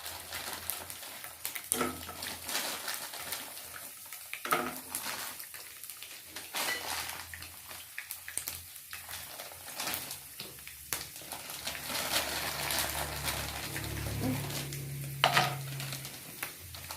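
Almonds and cashew nuts frying in hot oil in a pan, with a spoon clinking and scraping against the pan now and then. A faint low hum comes in during the second half.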